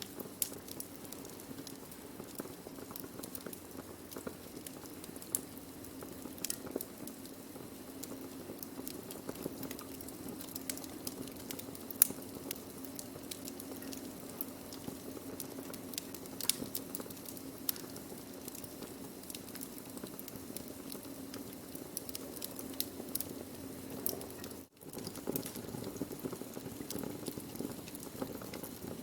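Burning wood crackling, with frequent sharp pops and snaps over a steady low hiss. The sound drops out for a split second about three-quarters of the way through.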